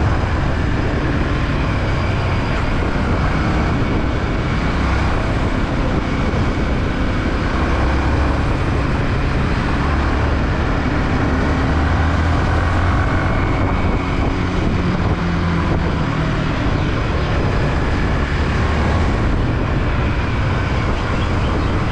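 Yamaha WR155 motorcycle on the move, its single-cylinder engine running steadily under a constant rush of wind and road noise.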